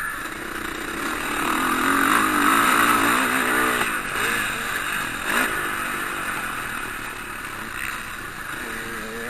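Motocross bike engines revving up and falling back as the throttle is worked, their pitch rising and dropping repeatedly, loudest about two seconds in.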